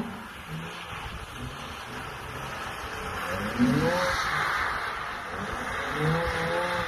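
Sports car engine revving as the car drifts on a wet skidpad, the revs climbing sharply twice, about halfway through and again near the end. A rushing hiss of tyres on the wet tarmac swells between the two revs.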